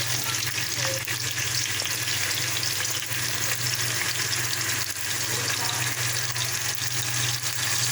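Oil with garlic-ginger paste and a splash of water sizzling steadily in a pan on medium heat, the water cooking off, over a steady low hum.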